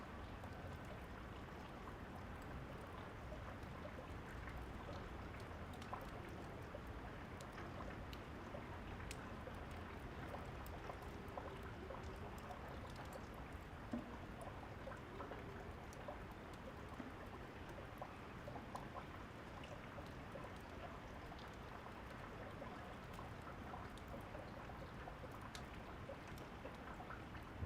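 Steady rain falling, with scattered small pops of a crackling wood fire and one sharper pop about halfway through.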